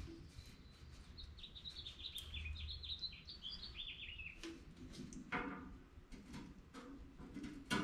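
A songbird singing a quick run of short chirping notes in the background, with a few scattered clicks and knocks from handling around the tractor.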